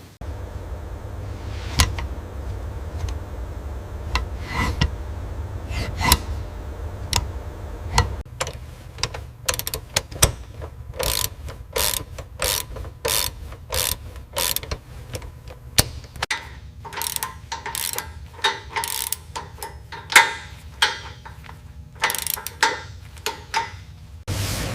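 Clicks and knocks of tools working on metal parts, irregular and closer together in the second half, over a low steady hum during the first eight seconds or so.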